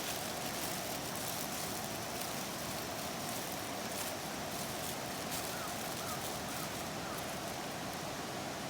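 Wood campfire burning, with scattered small crackles and pops over a steady rushing background noise.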